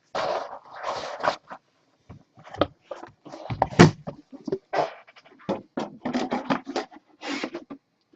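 Hands opening trading-card box packaging: an uneven string of short scrapes and crinkles of cardboard and plastic wrap, with a sharper crack a little under four seconds in.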